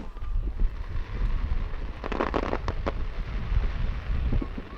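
Fireworks going off: a sharp crack right at the start, then a dense burst of crackling pops about two seconds in, over a steady low rumble.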